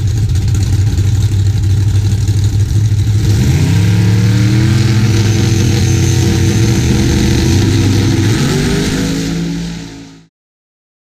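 Fox-body Mustang drag car's engine running loud at the starting line. It is revved up about three seconds in and held at high revs while the car sits staged. The note changes again near the end, then fades and cuts off abruptly.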